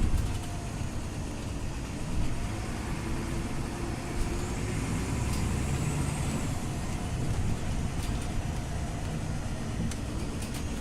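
Scania OmniLink CL94UB city bus running along the road: a steady engine and road rumble with a faint high whine that rises and falls around the middle, and a few light clicks.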